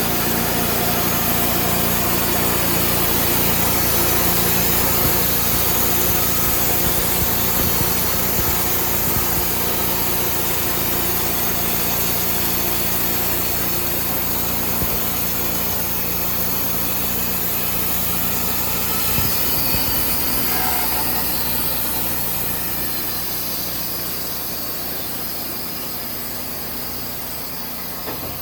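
Engine-driven portable sawmill running steadily as its blade saws through wood, with a constant engine hum under the cutting noise. The sound grows gradually quieter over the last third.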